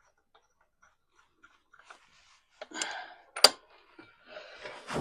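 Wheel nuts being fitted and tightened on a car's front wheel: faint regular metallic ticks, then handling noise and a sharp metallic clank about three and a half seconds in, and another clank near the end.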